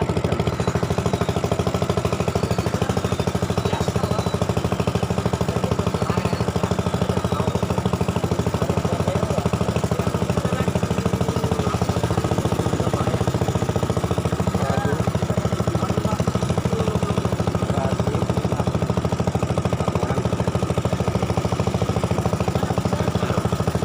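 Small boat's engine running steadily, with a rapid even beat.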